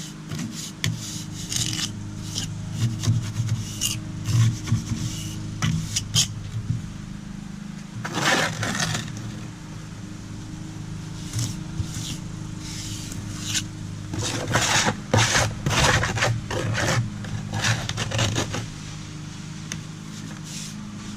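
Repeated scraping strokes of a hand tool on concrete, coming in irregular runs, over a steady low hum.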